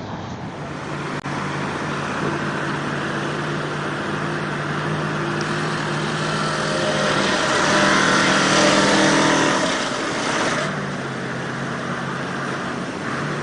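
Vehicle engine running steadily, then revving up about seven seconds in, loudest around nine seconds, and easing back near eleven seconds.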